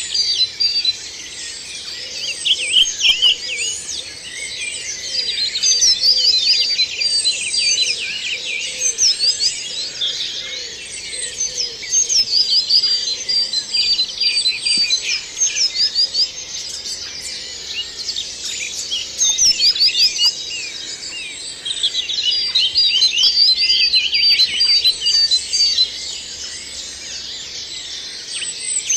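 Woodland dawn chorus: many songbirds singing at once in overlapping phrases of quick high notes and trills, with one song after another rising out of the steady chorus every few seconds.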